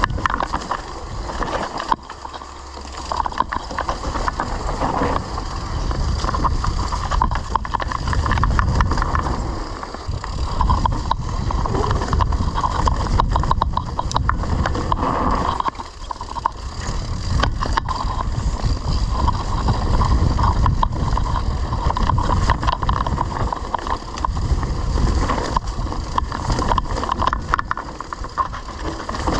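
Wind buffeting the microphone of a camera riding on a mountain bike, with the bike clattering and rattling over rough off-road ground.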